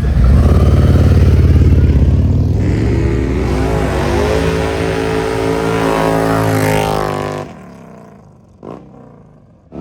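Harley-Davidson V-twin motorcycle engine running loud with a deep rumble, then revving up with rising pitch as it pulls away. The engine sound drops off sharply about seven seconds in, leaving a quieter stretch with one brief sound near the end.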